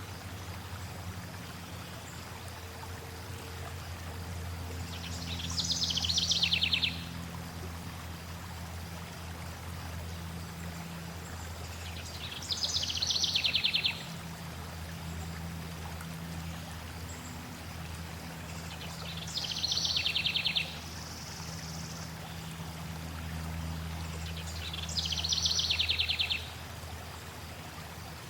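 Forest songbird singing a fast, high trill four times, each phrase about one and a half to two seconds long and about seven seconds apart, over a steady low sound of flowing water.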